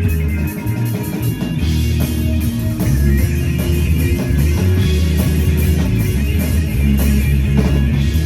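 Rock music: guitars over bass and a drum kit, playing steadily.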